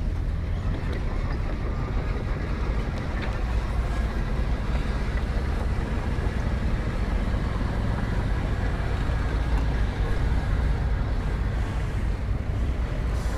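Diesel engine of heavy earthmoving machinery running steadily, a low rumble.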